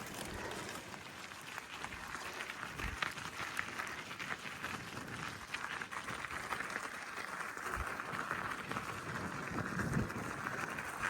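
Gravel bike tyres rolling over a wet, muddy road: a steady crackling hiss of grit and mud under the wheels, with scattered small clicks.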